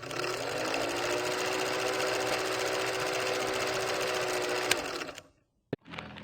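A small motor whirring steadily, its pitch rising briefly as it spins up at the start, then stopping about five seconds in.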